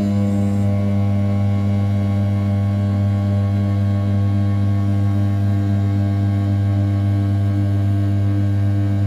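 500 W brushless spindle of an RZ420 desktop CNC mill at 6000 rpm, end-milling A7075 aluminium in outer-profile roughing: a steady, even hum with a strong low tone and a stack of overtones, rising slightly in level right at the start.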